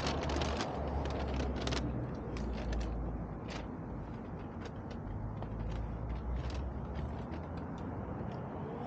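A steady low hum with many short clicks and crackles, thickest in the first couple of seconds and scattered after.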